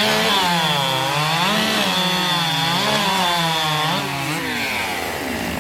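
Two-stroke racing chainsaw at full throttle, cutting through a log in a timed race, its pitch wavering under load. After about four seconds the engine note drops away.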